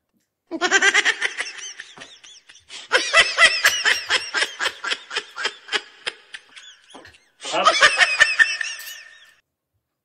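High-pitched laughter sound effect in three bouts of quick ha-ha pulses: the first about half a second in, a longer one from about three seconds to seven, and a last one near the end.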